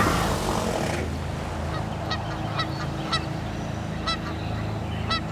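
Geese honking: a series of about six short calls, spaced roughly half a second to a second apart, over a low steady hum.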